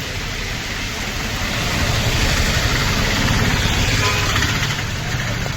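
Road traffic: vehicle engines running steadily, swelling louder for a few seconds in the middle.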